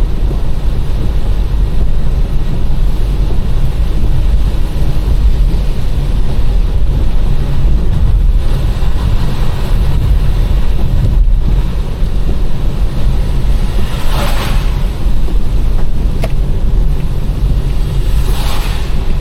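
Steady deep rumble of a car driving on a wet road, with two short hissing swells near the end, about four seconds apart.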